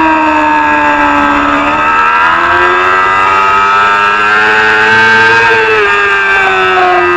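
Supersport 300-class racing motorcycle engine at full race pace. The engine note sags, then climbs steadily for about three seconds and drops sharply about six seconds in as the throttle is shut or a gear is changed, then winds down.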